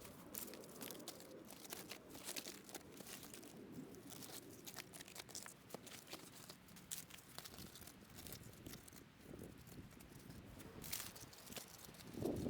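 Faint, scattered crackling and rustling of many small, irregular clicks, with no speech.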